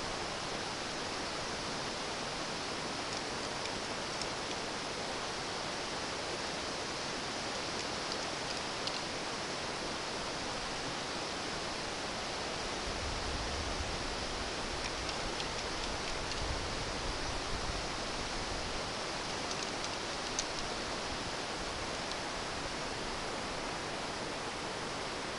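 Steady wind hiss on the microphone, with low gusts rumbling about halfway through and a few faint ticks.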